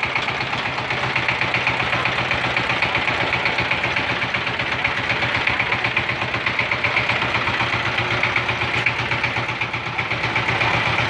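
Single-cylinder diesel engine of a 16 hp Saifeng walk-behind power tiller running steadily with a rapid, even chugging as the tiller is driven off.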